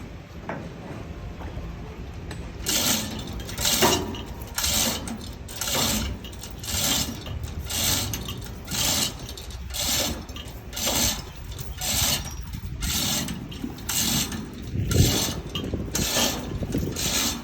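A mechanism making a repeated noise, one short stroke about every second, starting about three seconds in, over a low rumble.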